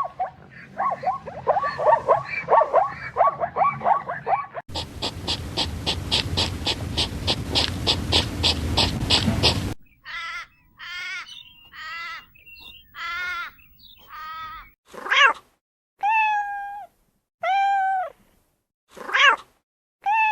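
A cat meowing over and over, short drawn-out meows about once a second, filling the second half. Before it come two other animal sounds: a fast run of repeated calls, then a pulsing call at about three pulses a second.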